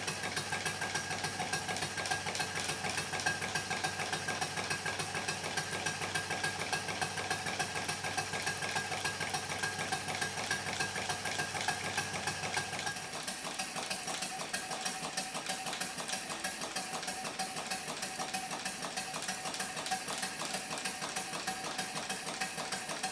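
1 1/2 inch scale model traction engine running, its exhaust beating in a fast, even rhythm with a steady whine above it. About 13 seconds in, the low rumble underneath drops away while the beats carry on.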